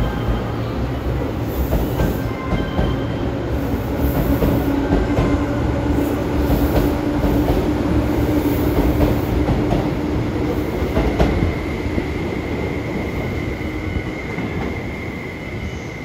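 Tobu 10050 series electric train pulling out of a station and running past, wheels clacking over rail joints with a steady hum. About two-thirds of the way through a high, steady wheel squeal sets in as it takes the curve, and the sound fades near the end as the rear car moves away.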